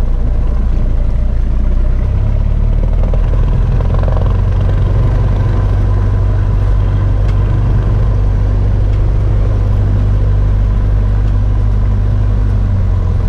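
Cessna 172's piston engine and propeller running hard during takeoff, a loud steady drone whose pitch steps up about two seconds in.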